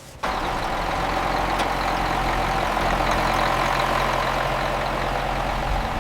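A bulldozer's heavy diesel engine running steadily. It cuts in suddenly just after the start.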